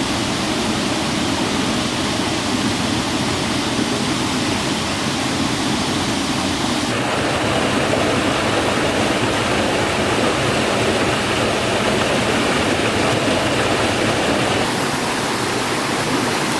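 Loud, steady rush of falling water from a waterfall on a mountain stream. Its tone shifts abruptly about seven seconds in and again near the end.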